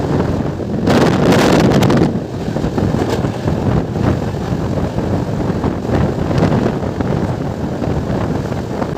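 Passenger train running through a long tunnel, heard from an open coach doorway: a loud, steady rush of wheel and rail noise, with wind buffeting the microphone.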